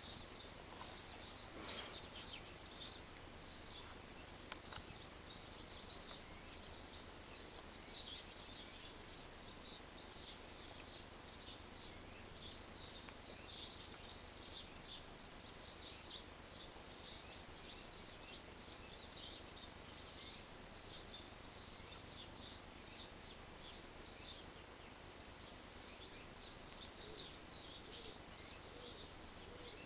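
Faint outdoor birdsong: small birds chirping and singing almost without pause, over a steady low hiss, with a couple of brief clicks.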